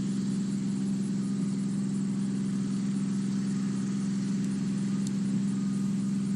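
An engine idling with a steady, unchanging hum.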